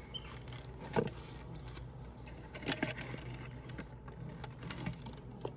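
A few light knocks and scrapes as parts are handled and lifted out of a wooden beehive, over a low steady hum.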